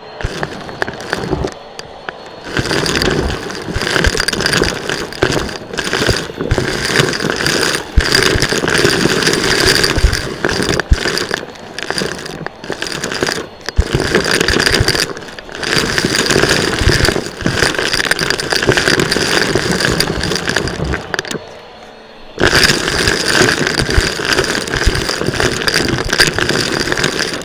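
Vacuum cleaner running with a steady motor whine while it is pushed rapidly back and forth, the noise surging and dipping with each stroke. It cuts out for about a second near the end, then starts again.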